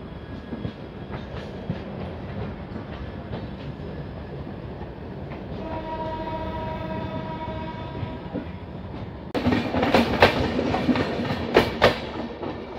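Indian Railways train rolling on the track with wheel clatter. A train horn sounds steadily for about two and a half seconds midway. Then, about nine seconds in, a sudden loud rush with sharp clacks lasts a couple of seconds as a train passes close by on the next line.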